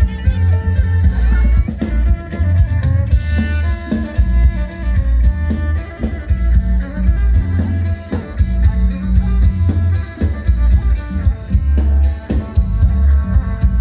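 Band music with a drum kit keeping a steady beat over heavy bass, with held instrument notes above and no voice.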